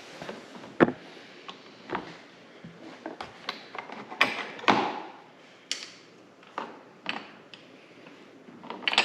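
Irregular clicks and knocks of hand tools and metal parts being handled, the sharpest knock a little under a second in and a louder pair around four to five seconds in.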